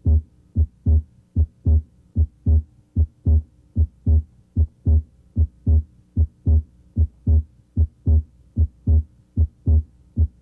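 Human heart sounds at the left third intercostal space: a steady lub-dub of S1 and S2, pairs of low thumps about 75 times a minute. Here S2 may be heard split into its aortic (A2) and pulmonic (P2) components.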